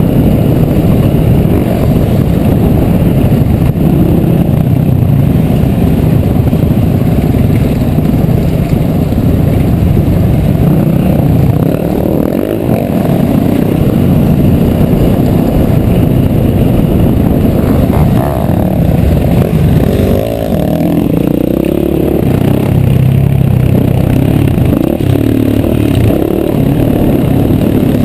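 Dirt bike engine running hard on a trail, its revs rising and falling continuously as the rider works the throttle, with a few quick rev swings about two-thirds of the way through.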